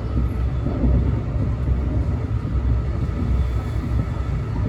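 Brightline passenger train running: a steady low rumble with a faint steady whine above it.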